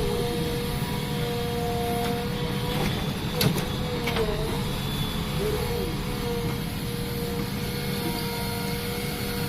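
JCB backhoe loader's diesel engine running steadily under its hydraulics, with a steady high whine. There is a sharp clank about three and a half seconds in, and the whine sags briefly a couple of times as the hydraulics take load.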